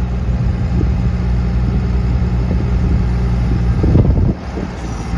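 Case 850L crawler dozer's diesel engine running steadily while the six-way blade is worked hydraulically. About four seconds in it briefly gets louder, then the engine sound drops off sharply for the last second.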